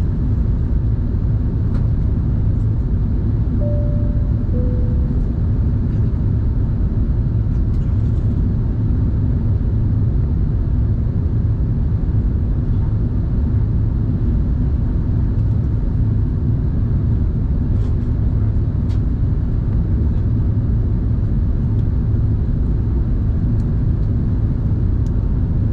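Steady low rumble of engine and airflow noise heard inside the cabin of an Airbus A380-800. About four seconds in, a two-note falling cabin chime sounds once.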